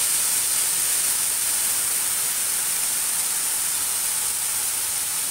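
Wet banana paste sizzling as it is poured into hot ghee in a kadhai: a steady hiss of steam and frying.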